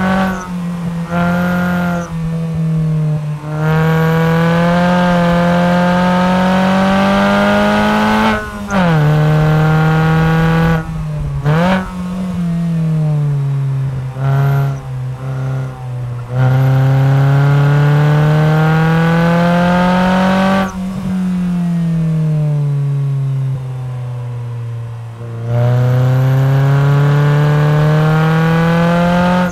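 Alfa Romeo 147 1.6 Twin Spark four-cylinder engine through a Force-G aftermarket exhaust, driven hard on a race track. Its pitch climbs in long pulls through the gears and drops at each shift. About a third of the way in there is a run of quick jumps up and down in revs, and later a long falling coast-down before it pulls hard again near the end.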